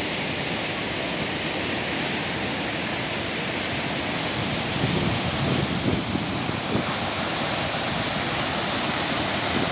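Waterfall: a steady rush of falling water, with a few low swells in the rumble about five to seven seconds in.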